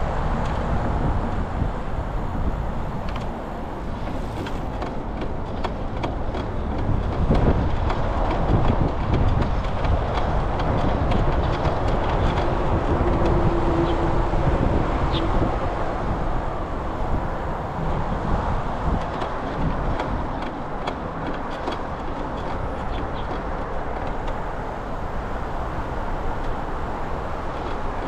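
Steady rushing noise of a moving bicycle ride: wind on the microphone over the rolling of tyres on a paved path.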